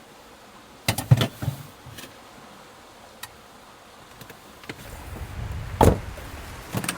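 A few sharp knocks and clicks, with a cluster about a second in and the loudest thump near six seconds, over a steady background rush.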